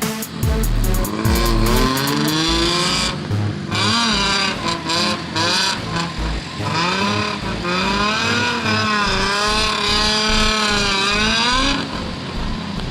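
Nissan 350Z's VQ35DE V6 through a Magnaflow exhaust, revving up and down repeatedly while drifting, with background music with a steady beat over it.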